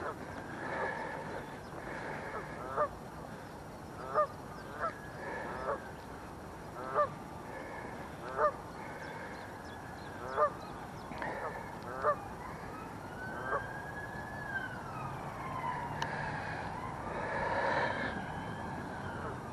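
Geese honking: about a dozen short, separate honks at irregular intervals.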